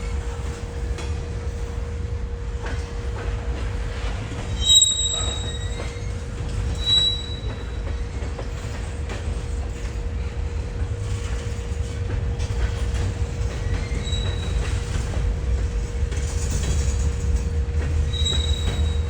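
Train rolling past with a steady low rumble and a constant hum, and brief high-pitched wheel squeals every few seconds, the loudest about five seconds in.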